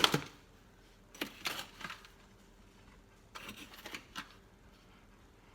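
A tablespoon scooping sugar and tipping it into a mug: a sharp click, then two short bursts of scraping and clinking, ending with a click.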